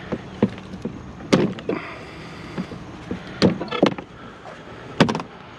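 Several sharp knocks and clanks, a few seconds apart, as metal parts of an old vehicle are handled, with a brief squeak near the middle.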